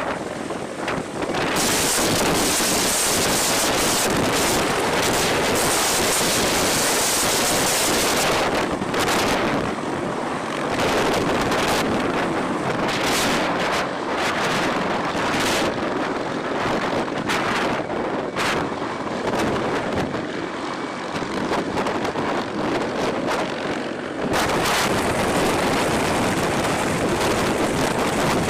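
Loud rushing aircraft noise with wind buffeting the microphone. Its character changes suddenly a couple of seconds in, about eight seconds in and again near the end.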